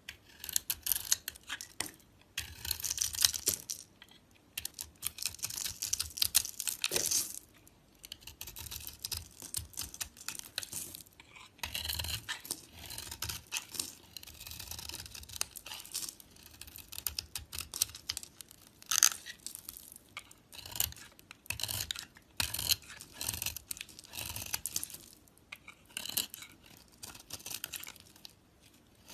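A knife blade carving a bar of soap: scraping strokes full of fine crackling clicks, each lasting one to three seconds, with short pauses between them.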